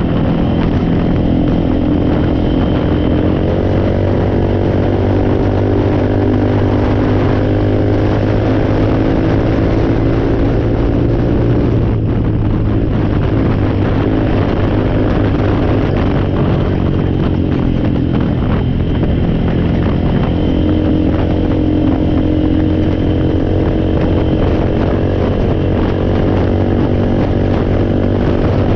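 Four-wheeler (ATV) engine running steadily, its speed rising a little about three seconds in, dropping back around the middle and rising again later on.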